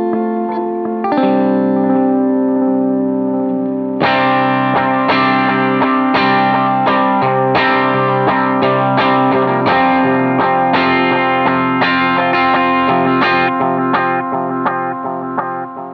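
Electric guitar, a Fender Stratocaster, played through a Line 6 HX Stomp amp model with a Boo analog delay pedal. A few held chords ring first; then from about four seconds in comes a run of quickly picked notes with delay repeats, fading near the end.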